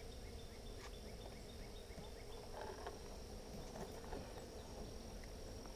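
Faint, steady hum of honeybees from an open hive, with scattered light clicks and knocks from wooden frames being handled.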